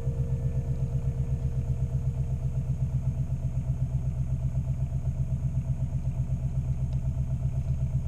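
A sailing yacht's engine running steadily, with an even, rapid low pulse.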